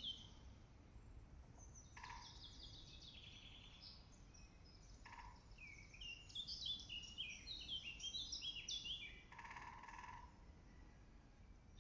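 A songbird singing faintly: phrases of quick, high, warbling notes, one about two seconds in and a longer run from about five to nine seconds, each opened or closed by a lower note.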